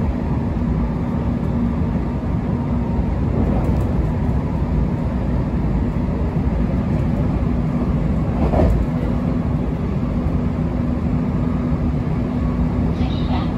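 Running noise heard inside the cabin of a JR West Special Rapid electric train travelling at speed: a steady rumble of wheels on rail with a constant low hum. About two-thirds of the way through there is a brief louder rush.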